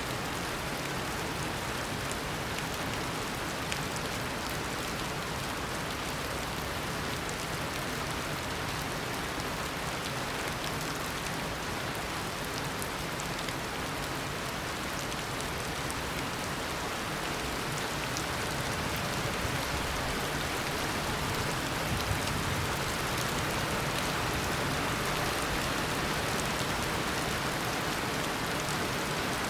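Tropical rainstorm: heavy rain falling steadily in a dense hiss of drops, swelling a little louder about two-thirds of the way through.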